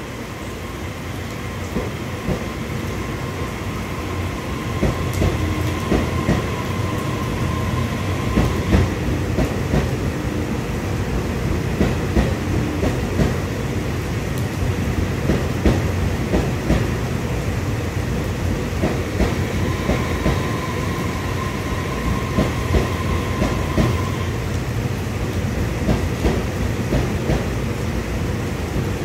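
A train running on rails: a steady rumble with many irregular clicks and knocks. It grows louder over the first few seconds, and a faint whine comes and goes twice.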